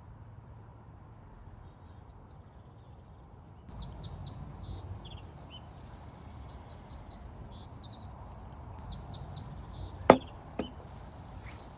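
A songbird singing fast runs of high, repeated chirps, starting about four seconds in and again after a short pause. A single sharp knock sounds near the end.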